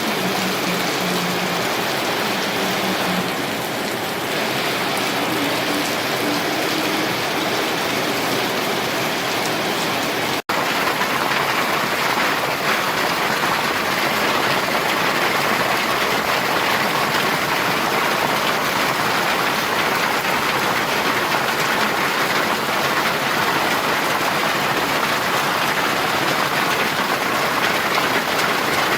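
Heavy rain falling steadily, a dense even hiss of drops on surfaces. About ten seconds in, the sound drops out for an instant and then resumes, like a splice in the recording.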